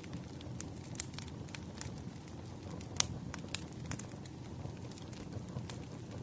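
Burning firewood crackling, with irregular sharp pops over a steady low rumble; the loudest pop comes about three seconds in.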